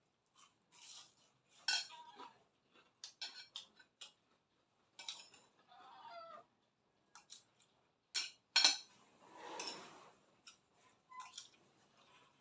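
Utensils clinking and scraping on a plate while eating, in scattered short clicks with brief rustling bursts.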